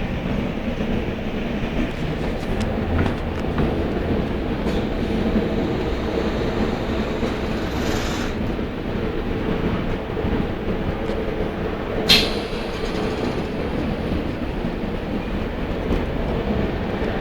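Inside the passenger car of a Trenord TSR electric commuter train under way: a steady rumble of the running train, with one sharp click about twelve seconds in.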